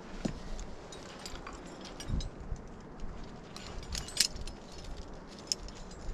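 Metal climbing gear, such as carabiners, clinking and rattling in short irregular jingles, with a few dull low knocks in between.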